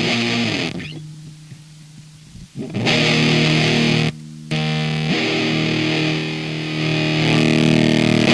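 Electric guitar played through a Square Face-style transistor fuzz pedal, distorted chords ringing out. About a second in the sound fades down to a quiet held low note. It comes back loud about three seconds in, with a short gap just after four seconds.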